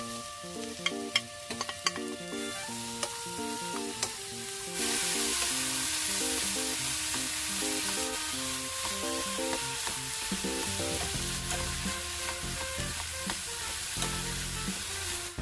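Oyster mushrooms sizzling in a hot frying pan as they are stir-fried over medium heat with a wooden spatula and chopsticks. A few sharp taps come in the first seconds, then from about five seconds in a steady, loud sizzle.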